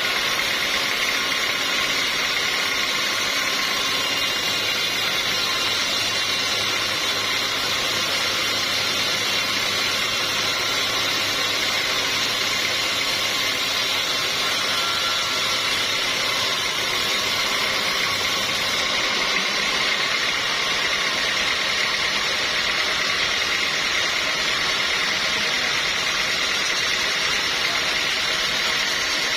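Sawmill machinery running steadily, a continuous mechanical drone.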